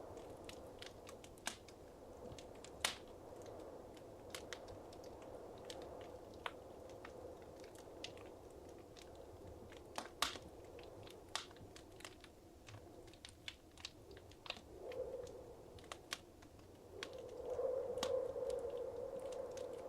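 Wood fire crackling in a fireplace: scattered sharp pops and snaps at irregular intervals, the loudest about 3 s and 10 s in, over a soft steady hiss of flame that swells near the end.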